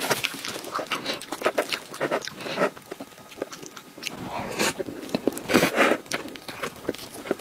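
Close-miked wet chewing and lip smacks of soft taro cream cake, with a fork clicking and scraping through the cake in a few louder bursts about halfway through.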